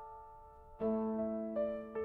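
Piano intro: a held note fading away, then a new chord struck about a second in, with further notes following near the end.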